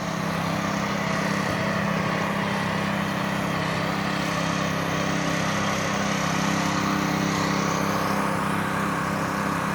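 An engine running steadily at a constant speed, a continuous even hum.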